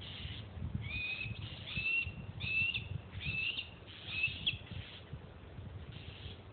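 A bird calling: about five short, rising whistled notes in quick succession, with a low rumble of handling or wind noise on the phone's microphone underneath.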